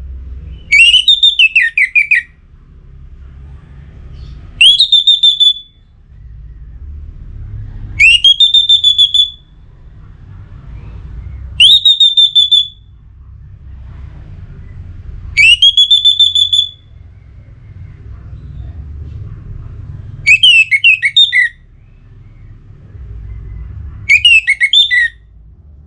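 Orange-headed thrush singing loud whistled phrases, seven in all, one every three to four seconds. Some phrases are a rising whistle held on one high note, others a quick run of falling notes. It is the full, excited song of a bird in breeding condition calling out a rival.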